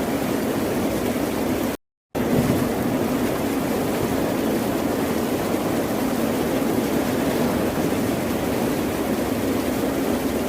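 Steady, dense roar of ocean surf with no separate wave swells standing out. It cuts out completely for a split second about two seconds in, then resumes unchanged.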